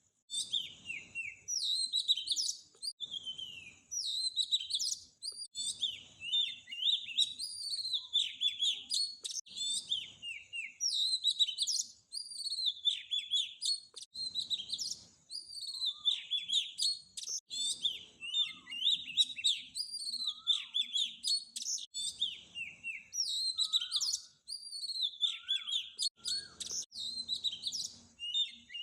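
Small songbirds chirping and twittering without a break, many quick high chirps and short gliding notes overlapping.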